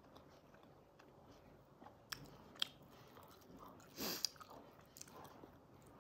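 Close, quiet chewing and biting of fried momo dumplings, with a few sharp clicks about two seconds in and a short, louder rustling noise about four seconds in.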